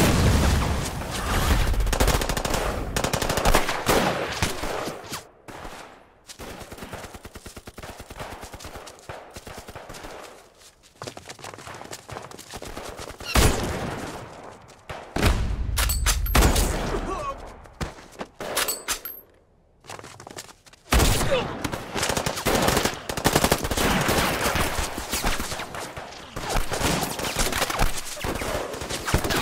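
Battle-scene gunfire from a war film's soundtrack: rifle shots and machine-gun fire in dense volleys. It drops back twice, around a quarter of the way in and again about two-thirds through, before building up again.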